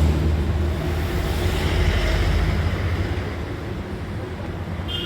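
A motor vehicle's engine rumbling low and gradually fading.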